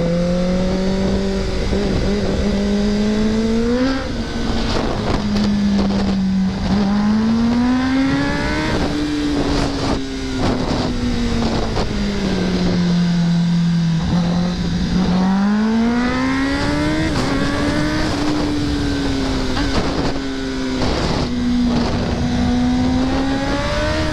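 2024 Kawasaki ZX-10R's inline-four engine under way, its pitch climbing and falling several times as the bike accelerates and slows, with a steady rush of noise behind it.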